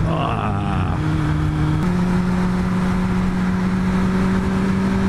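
Suzuki Bandit 600 inline-four running under throttle through its aftermarket Scorpion exhaust can, the engine note steady, then stepping up a little in pitch about two seconds in, over loud wind rush.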